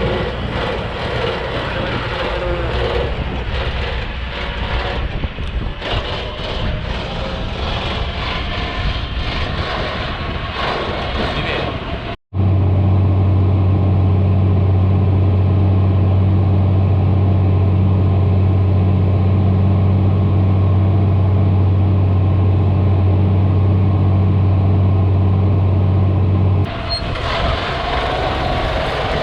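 John Deere tractor's diesel engine running, in three stretches joined by abrupt cuts. The middle stretch is a loud, very steady low drone.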